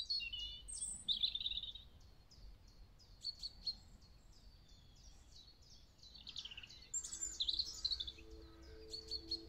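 Songbirds singing and chirping, many short high notes and trills from several birds at once. Soft music with long held notes fades in near the end.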